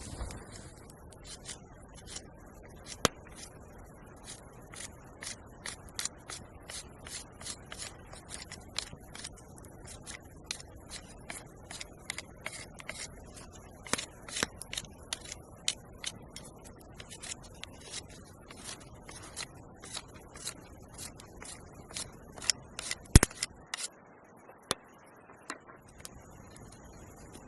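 A quick, uneven series of short scraping strokes, about two or three a second, with a few sharper clicks among them and one loud snap near the end.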